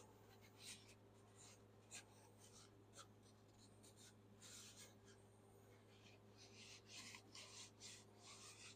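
Near silence with faint scraping and rubbing from hand work at the wheel hub: a few isolated scrapes, then a quick run of them near the end, over a steady low hum.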